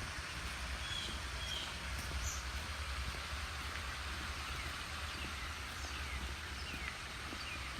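Outdoor trail ambience: a steady hiss with a low rumble underneath, and faint short bird chirps scattered through.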